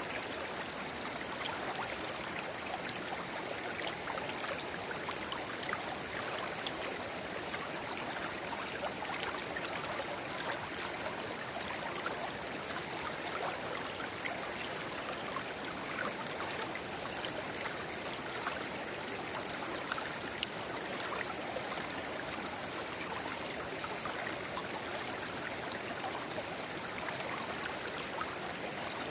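Shallow river babbling steadily, with a small spring-fed rivulet trickling into it, full of tiny splashes and no pauses.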